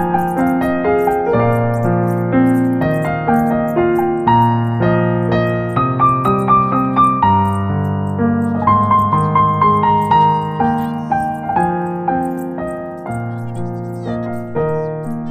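Background piano music: a melody of separate notes over a changing bass line, slowly fading toward the end.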